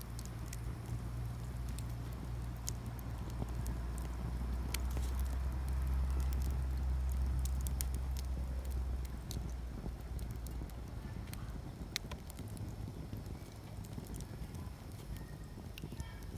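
Peach-wood campfire crackling, with scattered sharp pops and snaps, one sharp snap about twelve seconds in, over a low rumble that swells in the middle.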